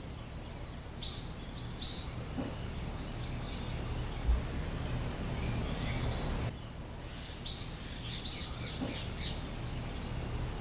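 Birds chirping: short, arching calls repeated every second or two, over a steady low hum.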